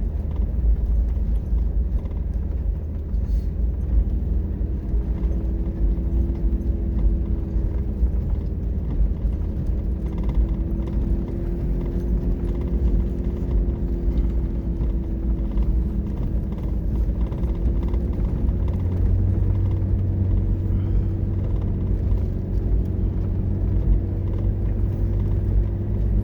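A vehicle engine running steadily with a low rumble, its pitch drifting slightly up and down, and a deeper hum that grows stronger about two-thirds of the way through.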